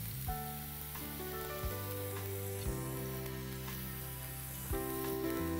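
Green chillies and ginger juliennes sizzling in hot oil, with a little stirring. Background music with held chords that change every second or so plays underneath.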